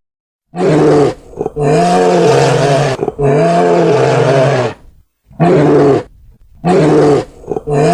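An animal's deep, loud calls repeated about six times in a row, each rising then falling in pitch. Some calls are short and others last over a second, with brief silences between them.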